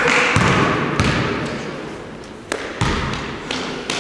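A basketball bouncing: about six sharp, irregularly spaced bounces over a hiss of background noise that fades over the first couple of seconds.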